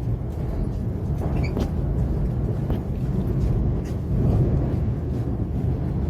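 Steady low rumble of an E5 series Shinkansen running, heard from inside the passenger car, with a few faint clicks.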